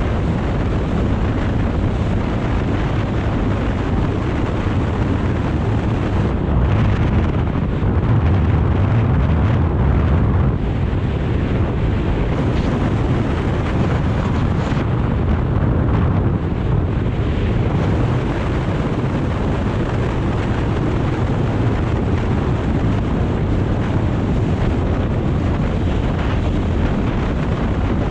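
Wind rushing over the microphone of a moving BMW R 1250 GS motorcycle, a steady loud noise with a deep rumble beneath.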